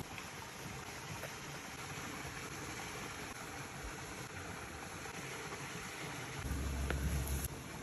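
Faint, steady sizzling of food cooking on a hot stone slab. About six and a half seconds in, a brief low rumble lasts about a second.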